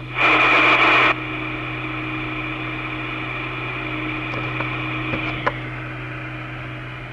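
Two-way railway radio channel left open with no one talking. A loud burst of static hiss cuts off about a second in, then a steady low hiss and hum with a few faint clicks.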